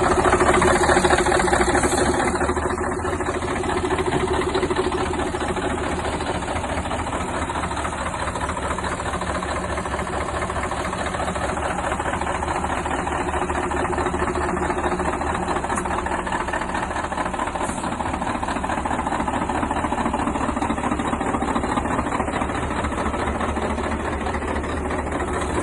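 Car engine idling steadily with a fast, even tapping running through its sound: an abnormal engine noise whose cause is unknown.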